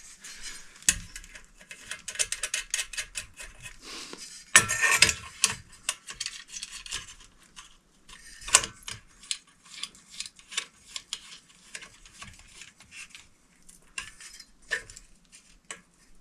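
Small metal hardware, screws and ceiling fan parts, clinking and rattling as they are handled, with a denser clatter about four and a half seconds in and a sharp clink a few seconds later.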